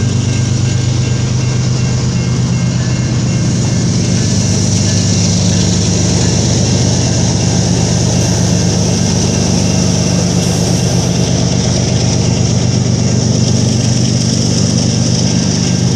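Train with its diesel locomotive engine running steadily, under a constant hiss of rolling noise.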